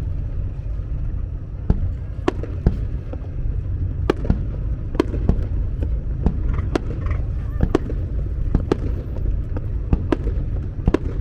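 Aerial fireworks exploding, a run of sharp bangs at irregular intervals, heard over a steady low rumble.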